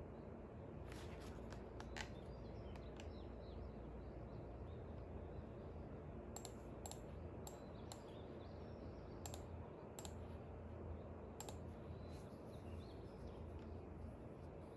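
Sharp clicks at irregular intervals, a cluster early on and a longer scattered run in the middle, over a steady low rumble of background noise, with faint bird chirps in the distance.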